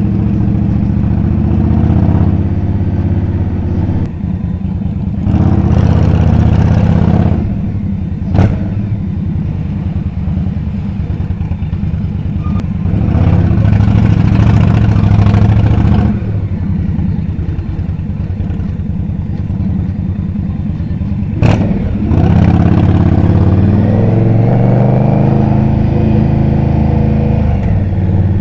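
Indian Scout's V-twin engine running through city traffic, opening up in three spells of acceleration and easing back between them. Two sharp knocks come through, about eight and twenty-one seconds in.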